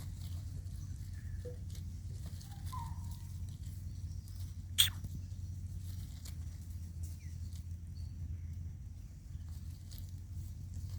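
Outdoor ambience: a steady low rumble with scattered light taps and rustles, a few faint short squeaks, and one sharp click about five seconds in.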